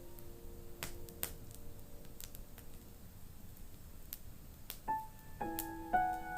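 Fireplace crackling with a few sharp pops while the last held piano notes fade away; about five seconds in, solo piano begins a new slow piece.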